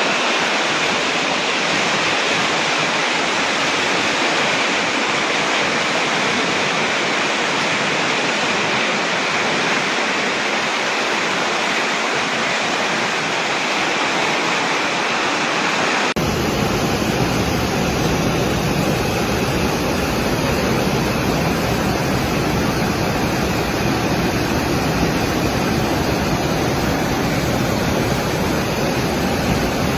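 Steady rushing of fast-flowing floodwater. About halfway through, the sound changes suddenly to a deeper, fuller rush.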